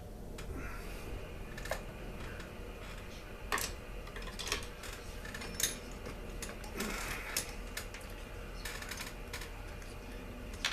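Irregular clicks and light knocks of Poulan Pro chainsaw parts being handled and worked loose by hand during a teardown, over a faint steady hum.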